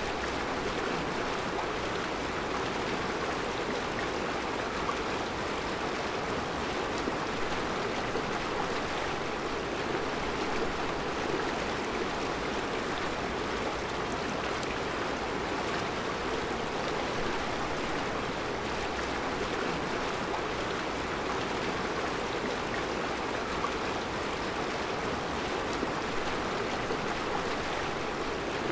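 Mountain river flowing over round rocks in its bed: a steady, even rush of water.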